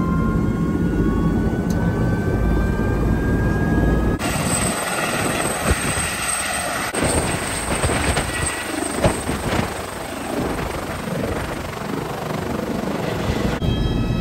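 Helicopter engine and rotor running loud and steady, with a whine slowly rising in pitch over the first few seconds. The sound changes abruptly to a brighter, hissing rush about four seconds in, and back to a deeper sound near the end.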